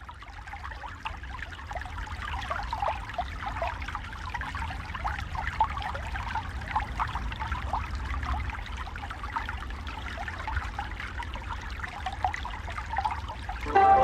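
Water of a small stream or brook babbling and trickling, with a low rumble underneath, swelling up over the first couple of seconds.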